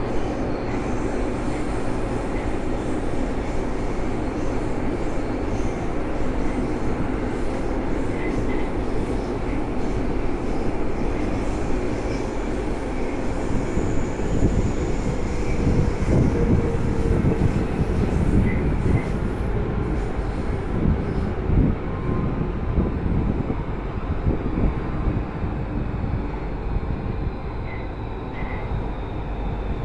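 Alstom AS-02 metro train running, heard from on board: a steady rumble of wheels on rails and running gear, rougher and louder for several seconds midway, with a faint falling whine near the end.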